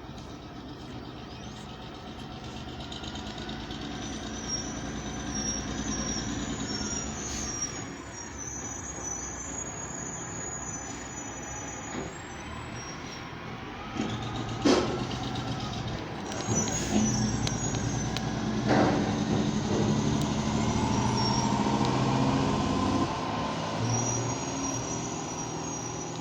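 Freightliner Columbia semi-truck's diesel engine running and growing louder as it approaches, with its Jake brake (engine compression brake) in use. Two short sharp bursts, about four seconds apart, come just past the middle.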